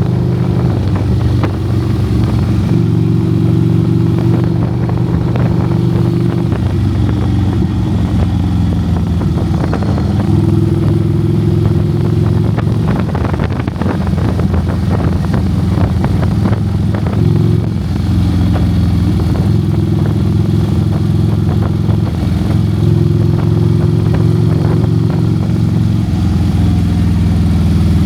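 Motorcycle engine running steadily at cruising speed, its note shifting now and then.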